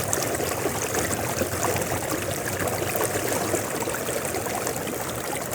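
River water flowing steadily, a continuous babbling rush with a busy patter of small splashes.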